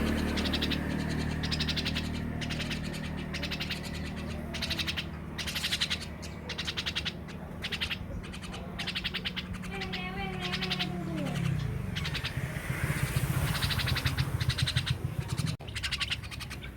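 Pet starling (burung jalak) calling in a run of harsh, rasping bursts, with one falling, meow-like call about ten seconds in. A steady low hum underneath winds down and stops a little later.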